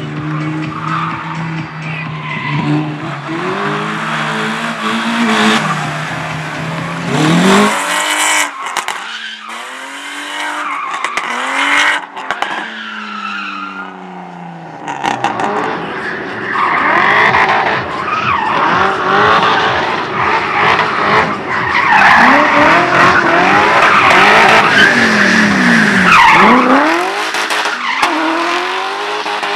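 Slalom racing cars driven hard, engines revving up and falling back through the gears, with long stretches of tyre squeal. The engine holds a steady note at first, and the sound breaks off abruptly about eight and twelve seconds in.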